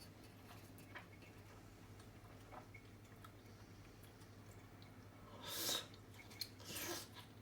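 Quiet eating sounds: a few faint clicks, then two short breathy, rustling noises about a second apart near the end, over a steady low hum.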